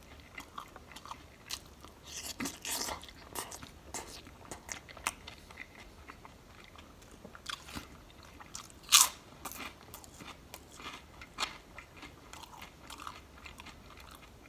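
Close-up chewing of a cold-cut sub sandwich with shredded lettuce: wet mouth clicks and crisp crunches throughout, a flurry of crunching about two to three seconds in, and one loud crunchy bite about nine seconds in.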